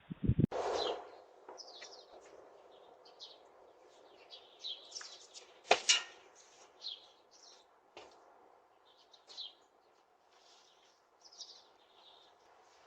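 Birds chirping, scattered short high calls over a faint steady hiss, with a sharp click about six seconds in and a fainter one about two seconds later.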